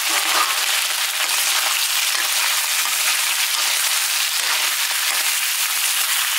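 Food sizzling in hot oil in a cooking pan: a steady, crackling hiss.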